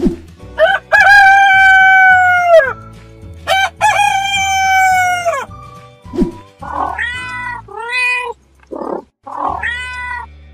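Two long rooster crows, then several shorter cat meows, as cartoon animal sound effects over background music with a low steady beat.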